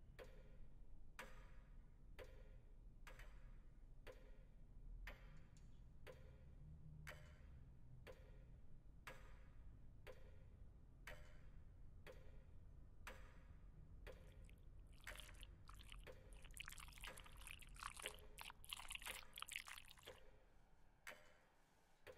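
Faint, steady ticking of a clock, about one tick a second, over a low hum; between about 15 and 20 seconds in, a louder, wavering hiss joins it.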